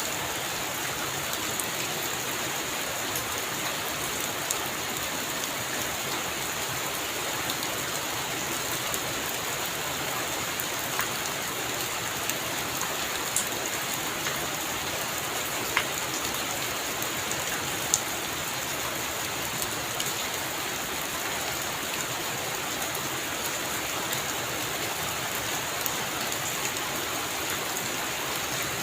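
Heavy rain falling on a roof in a steady hiss, with scattered sharper drop impacts now and then.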